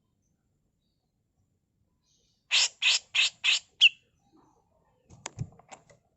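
Female grey-cheeked bulbul (cucak jenggot) giving a quick series of five harsh, rasping 'mbeset' calls at about four a second, starting about two and a half seconds in, the last one ending in a short pitched note. A few faint clicks follow near the end.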